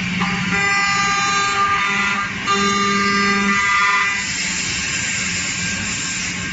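CNC woodworking machine running: a steady electric hum with a high whine that sets in just after the start and again about two and a half seconds in.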